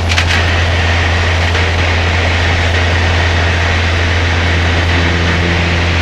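Cessna 152's four-cylinder Lycoming engine and propeller heard from the cockpit in flight: a loud, steady drone with a strong low hum.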